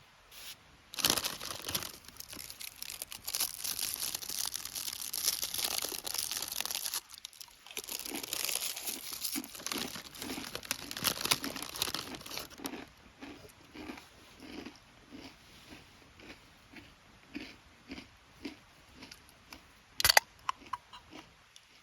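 Heavy rustling and crinkling of material being handled, in two long stretches, then soft regular crunches about twice a second, and a sharp clink with a brief ring near the end.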